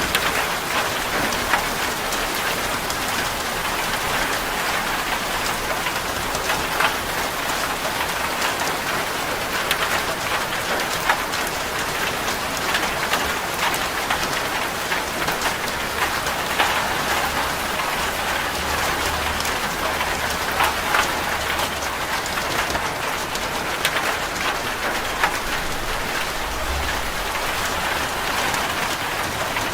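Steady rain drumming on a corrugated zinc roof: a dense patter with many sharp individual drop hits.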